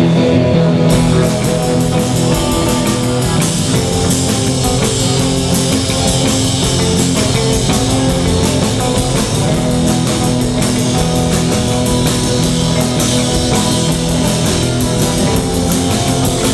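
Band playing an instrumental rock number: electric guitar, with the drum kit and cymbals coming in about a second in and keeping a steady beat.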